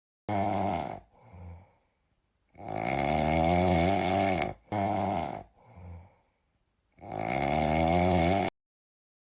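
Loud snoring: three long rasping breaths with a falling pitch, each followed by a short, fainter breath.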